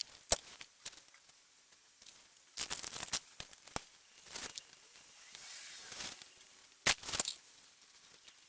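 Sharp clicks and knocks with short bouts of rattling and scraping as valve springs and collets are fitted to a Mini 1293 A-series cylinder head; the loudest knock comes near the end.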